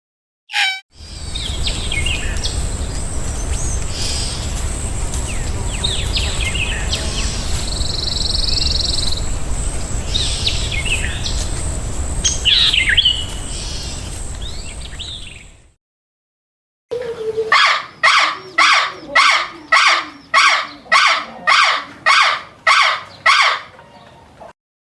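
Small birds chirping and twittering over a steady low rumbling noise. After a brief silence, a bird repeats a loud call about twice a second.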